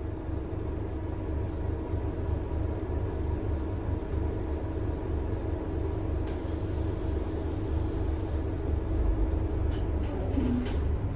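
Scania K280IB bus's five-cylinder 9.3-litre DC9 turbo diesel running, a steady low rumble with a steady whine over it. A hiss comes in about six seconds in, and there are a few clicks near the end.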